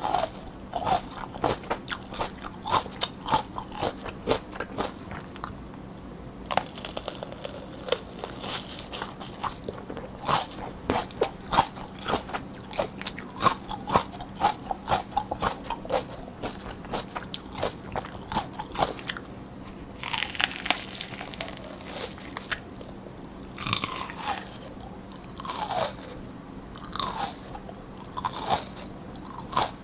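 Close-up crunching and chewing of raw mini sweet peppers: crisp, juicy bites followed by a steady run of chewing crunches, busiest in a couple of stretches.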